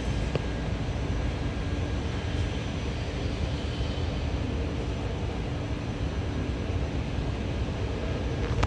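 Taoyuan Airport MRT train running, a steady low rumble with a few faint steady whining tones over it.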